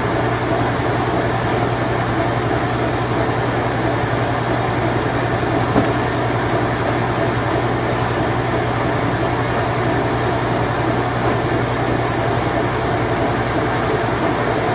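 A late-1980s Whirlpool Imperial Clean Touch washing machine running in its spin cycle: a steady motor hum with a strong low tone under an even rush of noise. There is a brief click about six seconds in.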